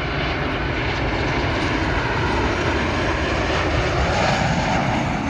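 Jet engines of a Boeing 737-800 airliner on landing approach: a steady, loud roar that swells a little as it passes.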